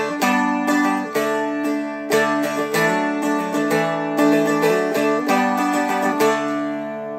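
Seagull Merlin M4, a four-string dulcimer-style instrument, strummed in a steady full-strum pattern through the chorus of a song. The chords ring on between strokes and change every second or two.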